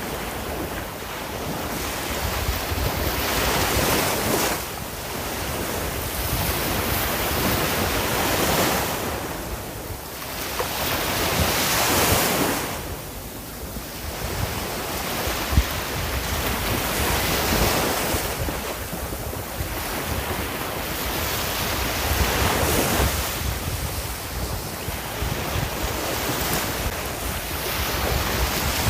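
Sea waves washing onto a shore, the surf rising and falling in surges every few seconds, with wind rumbling on the microphone.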